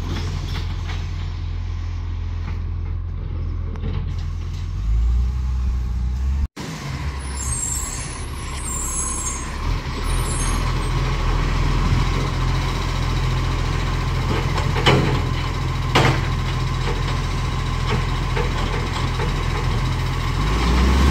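Garbage truck's engine running steadily, with an abrupt break about six seconds in. Just after it come a few short high hisses, and later two sharp knocks about a second apart.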